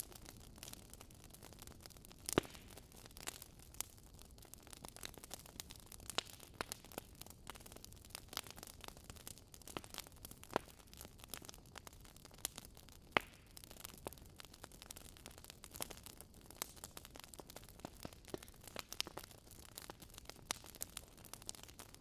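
Crackling campfire: irregular sharp pops and crackles over a faint low hiss.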